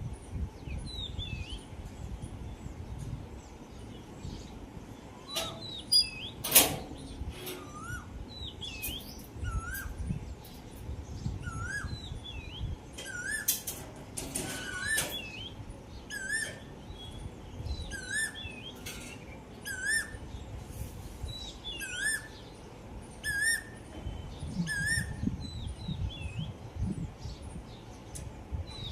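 Asian koel calling: a series of short calls about one every second and a half, each a little higher than the last, while other small birds chirp and trill around it. Two sharp clicks about six seconds in are the loudest moments.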